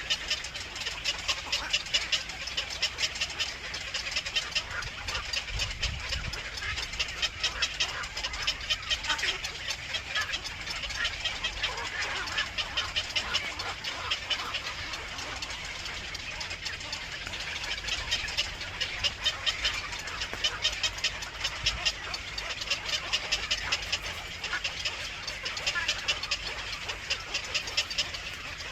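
Birds at a nest calling: rapid runs of short, high chirps that come in repeated bursts.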